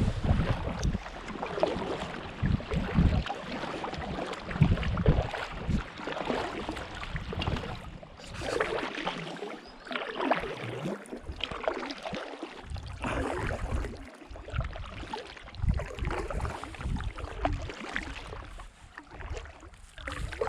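Paddles dipping and swishing through the water in irregular strokes as a small paddled boat moves along, with wind gusting on the microphone.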